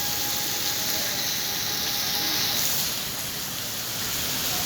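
Heavy rain pouring onto a city street, a steady dense hiss that eases slightly about three seconds in.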